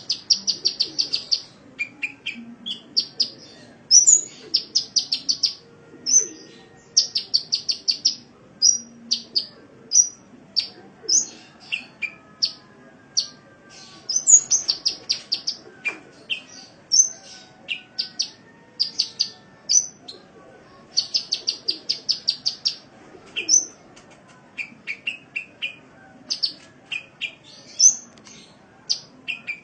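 Sunbird (the 'kolibri' of Indonesian bird-keeping) singing: high, sharp chirps in rapid runs of about ten notes a second, broken by single notes and short pauses. The recording serves as a masteran, a training song played to caged birds to teach them their song.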